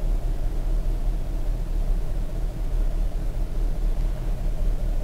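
2017 Chevrolet Camaro SS's 6.2-litre V8 idling, a steady low rumble heard from inside the cabin.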